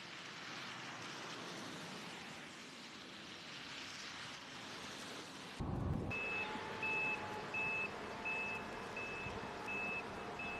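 A vehicle's reversing alarm beeping steadily, one high beep about every 0.7 s over a low engine hum, starting about six seconds in. Before that comes a steady rushing hiss of outdoor noise, which cuts off with a brief low thump.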